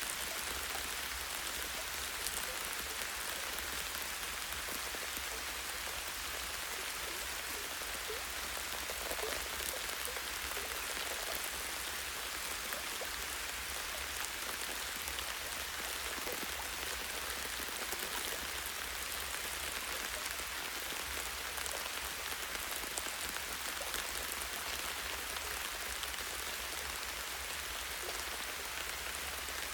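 Light rain falling steadily on forest leaves and branches, an even hiss with scattered individual drops.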